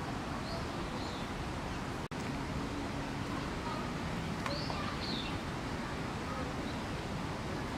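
Steady outdoor background hiss with faint distant voices and a few faint, high bird chirps, about half a second in and again about four and a half seconds in. The sound drops out for an instant about two seconds in.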